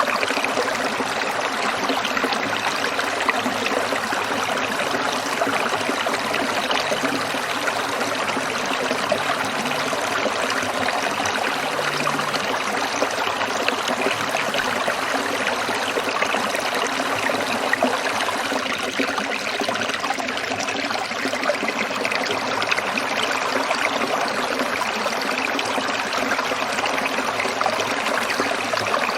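A small stream trickling and splashing over stones, a steady, even babble of running water.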